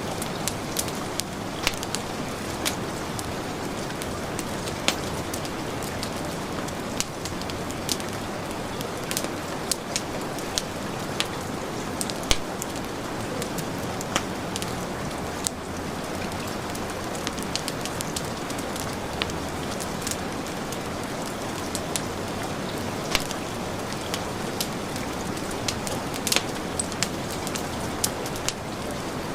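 Steady heavy rain mixed with a wood fire crackling, with sharp pops at irregular moments throughout.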